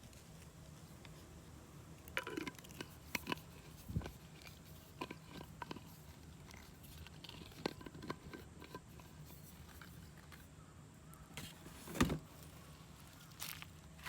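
Scattered light clicks and knocks of small items being handled, a dozen or so irregular strikes with the loudest knock near the end.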